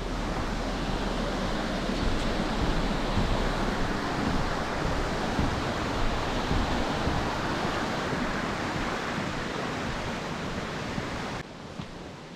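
Steady rushing noise with a low rumble, cutting off abruptly near the end.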